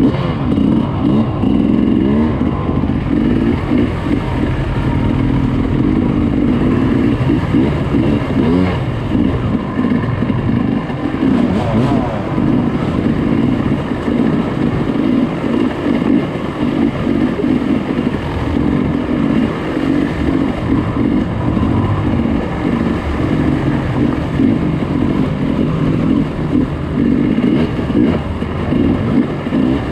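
Dirt bike engine running hard, revving up and down with constant throttle changes and never settling.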